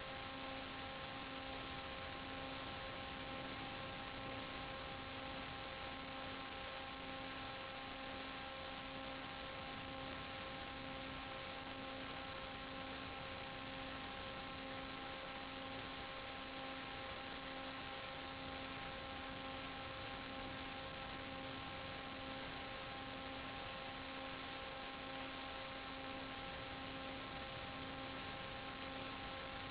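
Steady electrical hum, a set of fixed tones with the lowest pulsing about once a second, over an even hiss.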